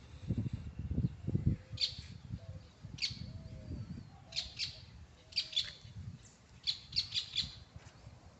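Birds chirping in short high calls, singly at first and then in quick clusters of two or three towards the middle and near the end. Under them are low rumbling thumps, loudest in the first second and a half.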